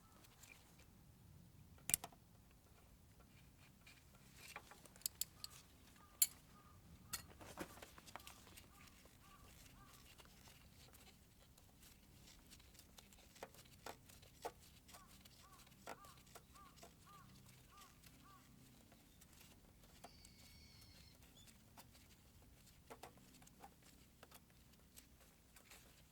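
Near silence broken by sparse, sharp light clicks and taps, the loudest about 2 s and 6 s in. Two runs of faint, short chirps repeat about twice a second.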